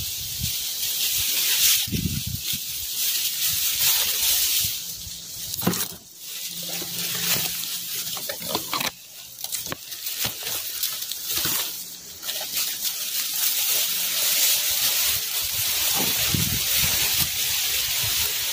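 Strong wind rushing through tree foliage and buffeting the microphone, a steady hiss of rustling leaves with low gusty thumps.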